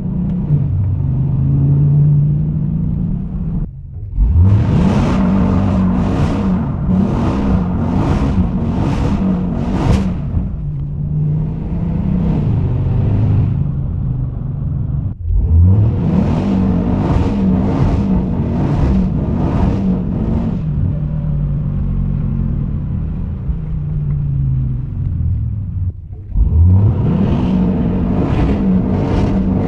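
Dodge Challenger Hellcat's supercharged V8 revving hard while drifting on wet roads. The revs drop sharply three times and climb again each time.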